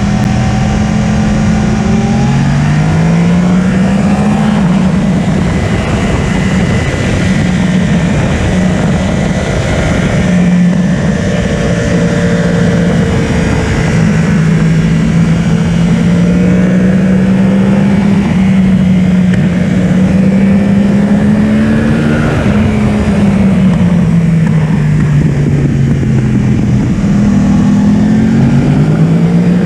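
Yamaha R1 inline-four engine at full running on a race track, heard from on board the bike over heavy wind rush. The engine note climbs under acceleration and drops back on deceleration several times, holding a steady high pitch in the middle.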